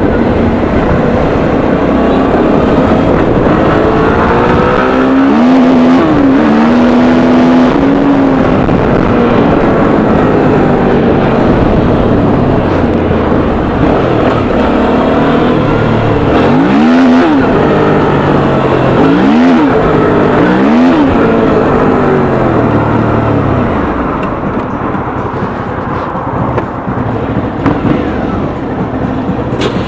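Suzuki V-Strom 650's V-twin engine under way on the road, its revs rising and falling several times as the rider accelerates and shifts; it eases off somewhat near the end.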